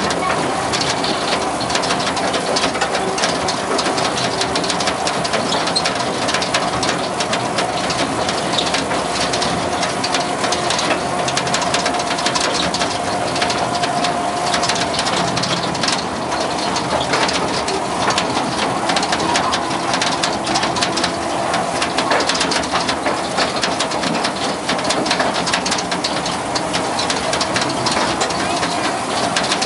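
Small tourist train's open passenger car in motion: steady running noise with constant rattling and a steady hum.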